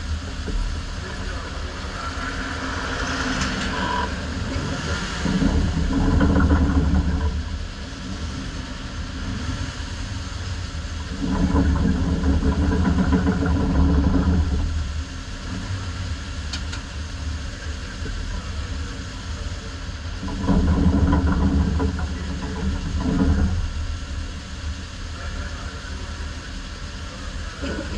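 Ministock race car engine running stationary at idle, revved up in several bursts of a few seconds, one held for about four seconds.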